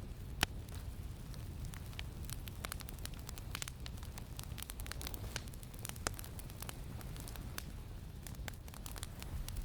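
Campfire crackling, with irregular sharp pops, the loudest about half a second in, over a steady low rumble of wind.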